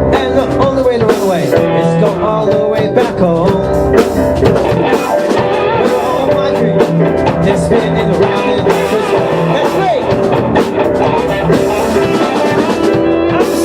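Rock music instrumental passage: guitar playing over a drum kit, with notes that bend up and down in pitch.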